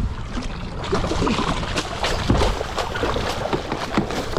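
Water splashing and sloshing beside a boat, with scattered sharp knocks and a low steady rumble underneath.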